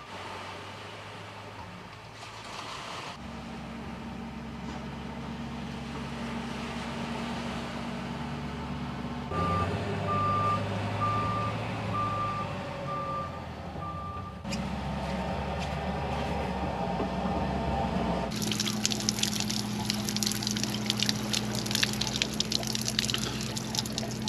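Coffee being made on a camping stove: a steady low hum throughout, a vehicle's reversing alarm beeping about once a second for several seconds midway, and in the last few seconds crackling, bubbling water as it comes to the boil.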